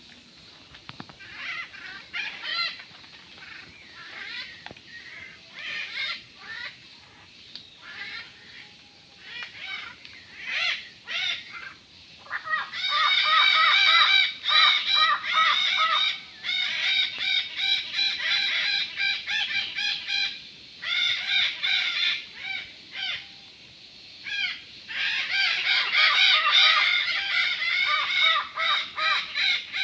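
A flock of parrots calling with harsh, repeated squawks, scattered at first and then near-continuous from about halfway, with a short lull near the end before they start up again.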